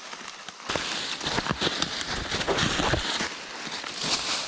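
Dense rustling and crackling of grass, brush and twigs being pushed through and trodden on, starting just under a second in, with a low rumble for a couple of seconds in the middle.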